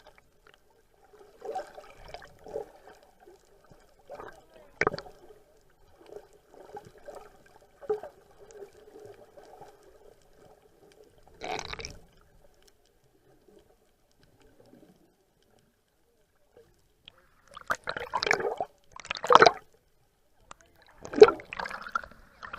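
Water splashing and sloshing against a small boat in separate bursts, with a few louder splashes near the end and quiet gaps between.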